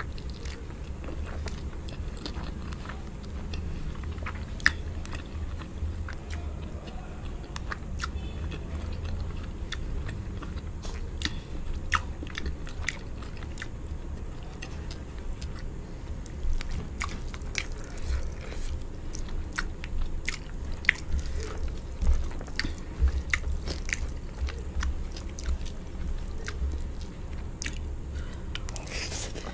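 A person chewing mouthfuls of rice and palava sauce eaten by hand, with many short wet mouth clicks and smacks throughout.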